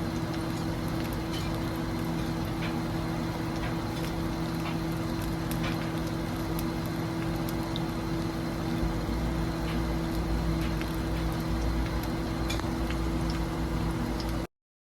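Food sizzling in a frying pan: a steady hiss with scattered small pops and crackles over a steady low hum. It cuts off suddenly near the end.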